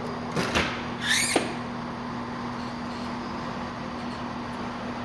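Diesel train idling with a steady low hum, broken about half a second and a second in by two short, sharp noises.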